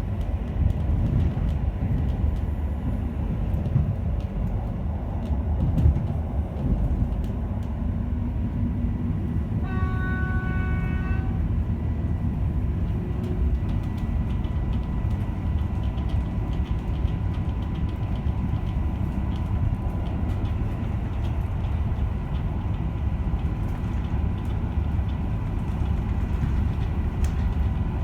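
Polish EN57 electric multiple unit running: a steady low rumble with a faint constant high hum. A horn sounds once for about a second and a half, about ten seconds in.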